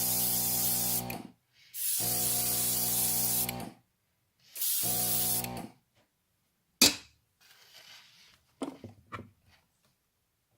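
Airbrush spraying black paint in three bursts of a few seconds each, with a steady hum under the hiss. A single sharp click comes about a second after the last burst, followed by a few faint taps.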